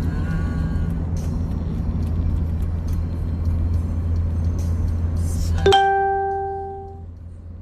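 Steady low drone of a car's engine and road noise, then, near the end, a single bright chime that rings and fades over about a second and a half as the drone drops away.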